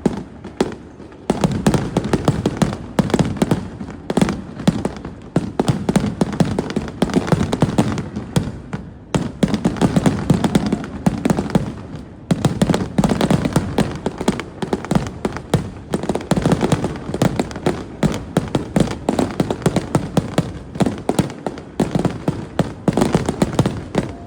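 Fireworks crackling and popping: a dense, continuous run of sharp cracks, many each second, with short lulls about nine and twelve seconds in.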